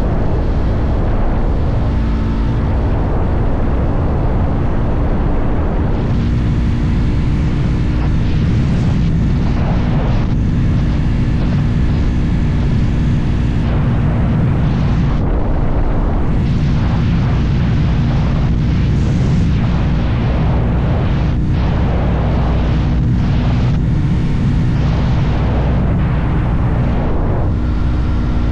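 Motorcycle engine running steadily at cruising speed, its low hum holding an even pitch, under a rush of wind on the microphone that swells and drops in gusts.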